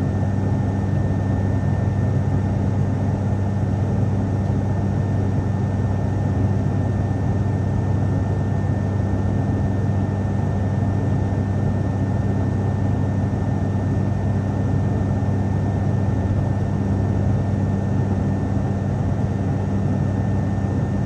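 Cabin drone of an ATR turboprop airliner in cruise: a steady low propeller hum with a faint constant high whine above it, over an even rush of airflow noise.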